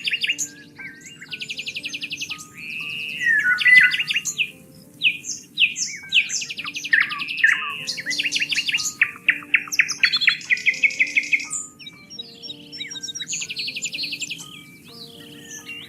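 Several songbirds singing at once: rapid trills, chirps and whistled notes overlapping without a break, over a faint low steady drone.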